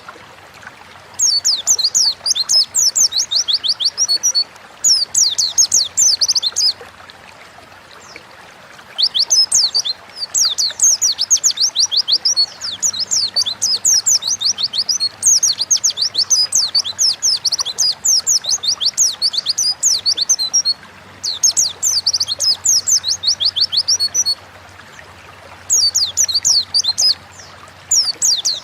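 White-eye (pleci) singing: long runs of rapid, high twittering notes in phrases of a few seconds each, broken by short pauses, over a faint steady hiss.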